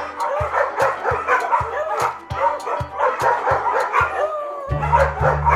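Dog yips and barks, short repeated calls with a longer whining call near the end, over background music with a steady beat. A bass line joins near the end.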